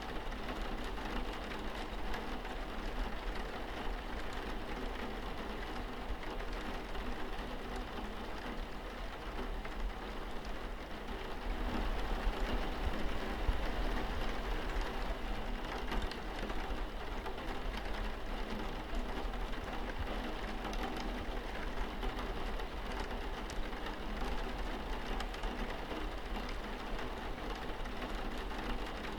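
Steady rain pattering on a window pane, many fine drops ticking over a low steady hum, swelling slightly a little before the middle.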